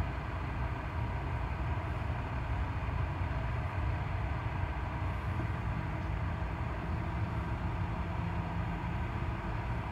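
Train running past with a steady low rumble and a faint steady whine higher up.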